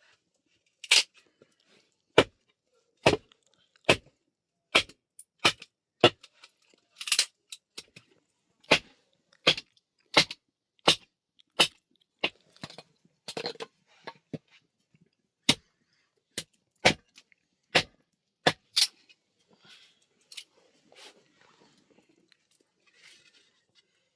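A series of sharp knocks, roughly one a second at an uneven pace, which stop about nineteen seconds in and leave only faint scuffling.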